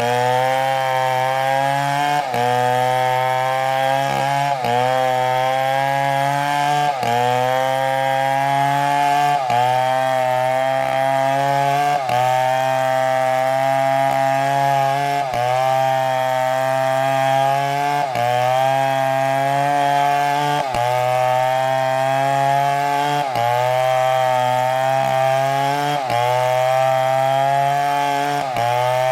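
Large chainsaw running at high throttle while cutting through a big tree trunk. Its pitch sags briefly and recovers about every two seconds as the chain loads up in the cut.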